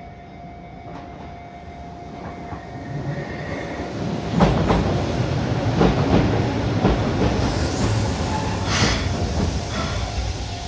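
Keihan 700-series two-car train (cars 703-704) rolling into the platform, growing louder about two seconds in, its wheels knocking over rail joints and the level crossing. A level-crossing bell rings faintly at first, and a short hiss of air brakes comes near the end as the train slows to stop.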